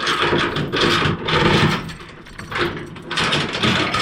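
Cargo tie-down strap being worked on a flatbed load, with about four rasping strokes of webbing and ratchet, roughly one a second.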